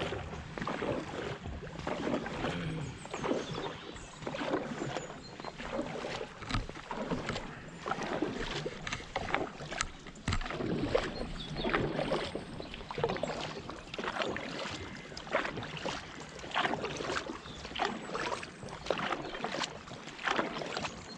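Dragon boat crew paddling: paddle blades catch and pull through the water with repeated splashes, about one stroke a second, over steady water rush along the hull.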